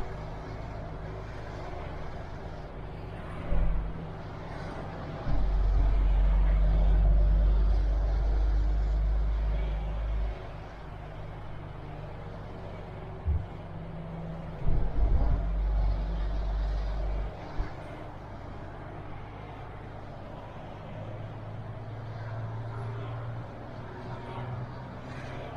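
MAN TGX truck's diesel engine running steadily while driving. There are two spells of heavy low rumble, one about five seconds long in the first half and one about three seconds long in the middle, and a few short thumps.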